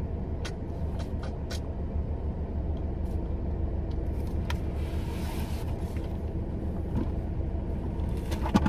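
2018 Chevy Malibu LT's engine idling with a steady low hum. A few light clicks come in the first couple of seconds and again about four and a half seconds in, with a brief hiss about five seconds in.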